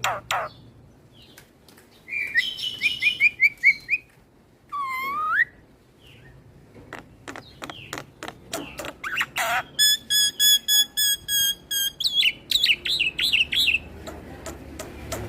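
Black-winged myna (jalak putih) singing a varied song. It mixes runs of sharp clicks, a quick series of chirps, and one loud dipping whistle about five seconds in. A buzzing trill follows around ten seconds, then wavering notes and more clicks near the end.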